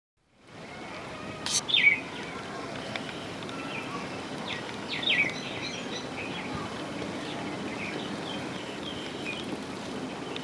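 Birds chirping over steady outdoor background noise. Two louder short calls fall in pitch, one just under two seconds in and one about five seconds in, with fainter chirps scattered between.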